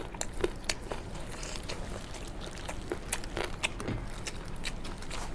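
Close-up eating sounds: chewing and crunching, with many short, irregular clicks and crackles.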